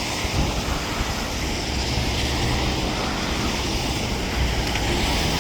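Wind buffeting the microphone, with a low, steady engine rumble underneath that grows a little stronger partway through.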